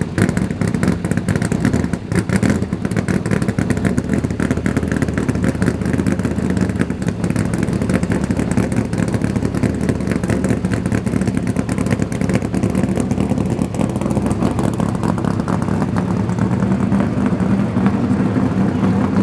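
1969 Corvette's ZL-1 427 all-aluminum big-block V8 idling steadily with a fast, even pulse.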